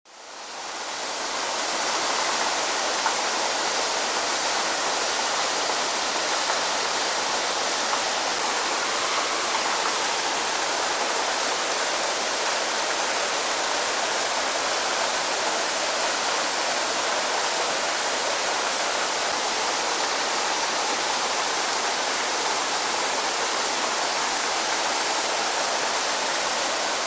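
Low-drop waterfall rushing steadily, fading in over the first second or two.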